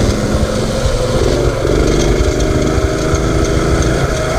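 Mini bike's small generator engine running steadily under throttle.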